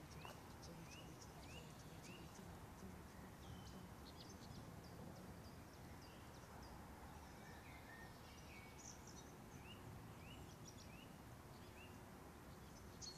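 Quiet outdoor ambience: birds calling, one repeating a short rising note about twice a second in runs near the start and again around the middle, with other higher calls scattered through, over a low steady background noise.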